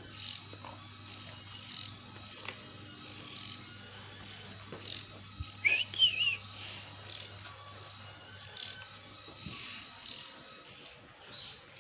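Oriental magpie-robin chicks chirping over and over, with short high calls about twice a second. About halfway through comes one louder, lower, wavering call.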